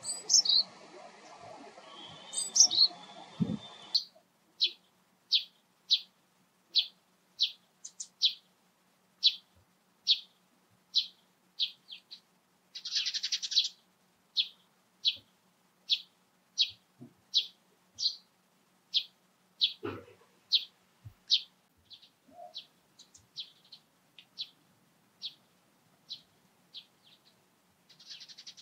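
A small songbird calling, short high chirps repeated over and over at an even pace of about one or two a second. The first few seconds are a different, hissier recording with a couple of rising calls.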